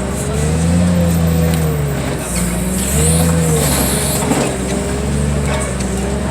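Heavy equipment engine running hard, its pitch rising and falling repeatedly as it takes and sheds load, dipping briefly about two seconds in before picking up again.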